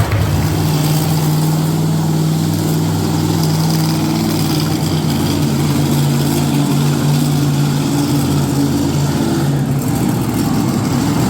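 Monster truck engine running steadily at a low, even pitch, shifting slightly near the end.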